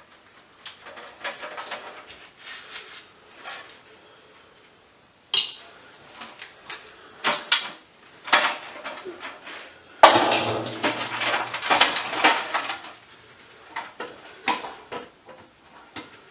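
Metal parts and hand tools clinking and rattling as scrap is taken apart, in irregular knocks, with a longer, louder rattle about ten seconds in.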